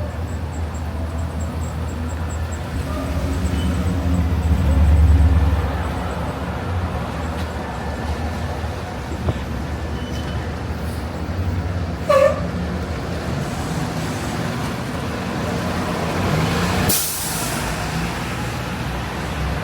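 City street traffic: a heavy vehicle's engine rumbles low and swells about four to six seconds in. A short horn beep comes about twelve seconds in, and a brief air-brake hiss near the end.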